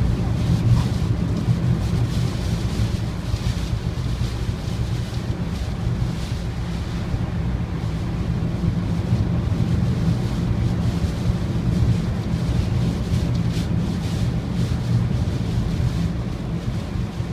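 Strong typhoon wind blowing onto the microphone: a steady low rumble, with gusts that rise and fall every second or two.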